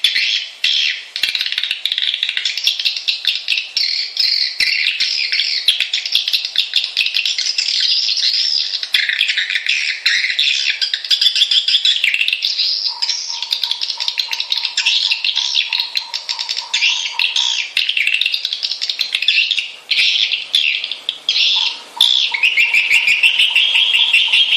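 Swiftlets calling: a dense, unbroken twittering chatter of rapid high chirps, a lure and roosting-call recording of the kind played to draw swiftlets into a nesting house. A faint steady tone sounds twice, about halfway through and again near the end.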